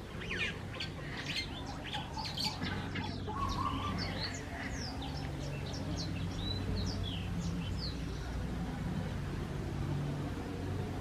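Small birds chirping: many short, quick chirps and sweeping calls, dense at first and ending about seven seconds in, over a steady low hum.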